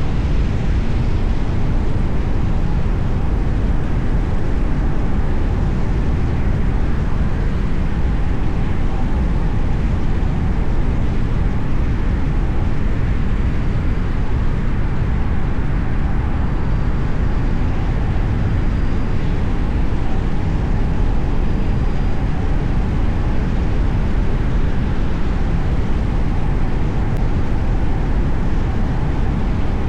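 Car driving along city roads: a steady low rumble of tyre and engine noise that holds even throughout, with no distinct passing events.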